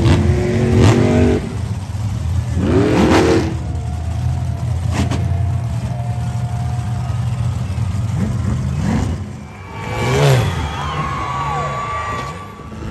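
Monster truck engine running loud, revved hard several times, with each rev rising and falling in pitch, and a few sharp knocks in between.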